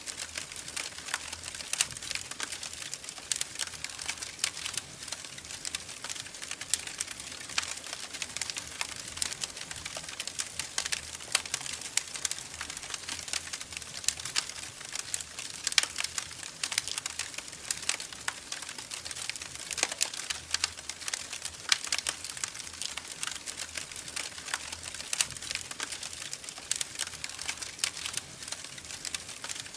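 Wood fire in a fireplace crackling, with constant small irregular pops and snaps and an occasional louder pop over a faint hiss.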